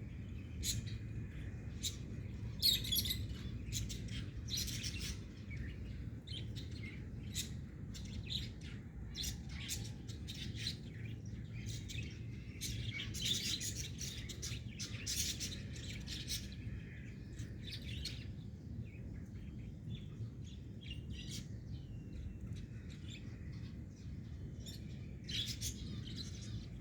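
Small pet birds chirping and tweeting in many short, scattered chirps, over a steady low hum.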